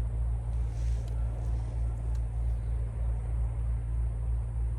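Steady low rumble with a faint even hiss above it, and a brief rustle about a second in.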